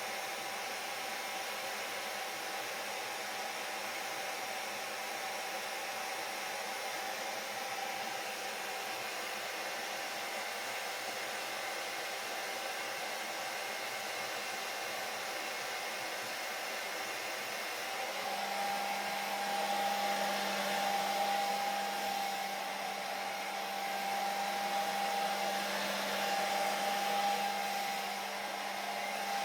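Electric hair dryer running continuously: a steady rush of air with a constant whine. About two-thirds of the way through, the sound shifts: it gets a little louder, a low hum comes in, and the whine grows stronger.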